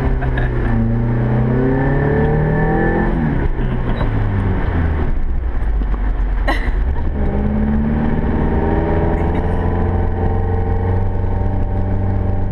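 Suzuki Sidekick's four-cylinder engine heard from inside the cabin, revving hard while the truck spins doughnuts on sand. The revs climb, fall away about three seconds in, then rise again and hold high from about seven seconds in, with a single sharp click in between.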